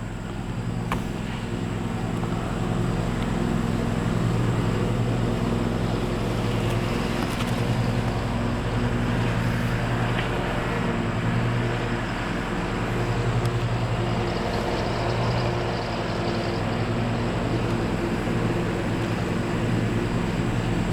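A steady low motor drone, like an engine running, with a faint high whine above it.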